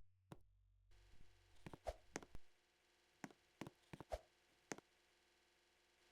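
Near silence broken by about a dozen faint, irregular clicks and knocks over the first five seconds, then quiet.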